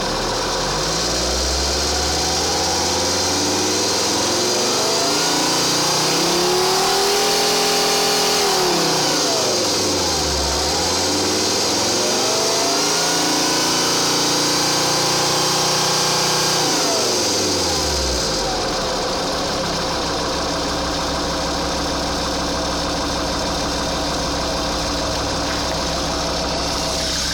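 2.4 JTD five-cylinder common-rail diesel engine revved twice from idle. The first rev climbs slowly, holds for a couple of seconds and drops about ten seconds in. The second rev holds again before the engine falls back to a steady idle about two-thirds through. The owner is showing this as a strange noise from the engine.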